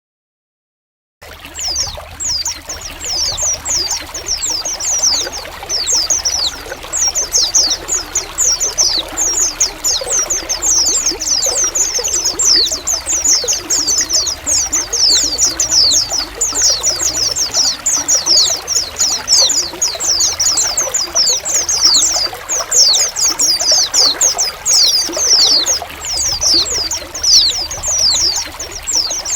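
A flock of white-eyes (pleci) chattering without pause, many quick high chirps each falling in pitch, over the steady trickle of running water. It starts about a second in.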